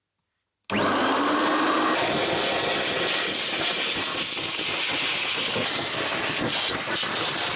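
Vacuum cleaner switched on: a sudden start, its motor climbing up to speed, then a steady loud rushing hiss of suction.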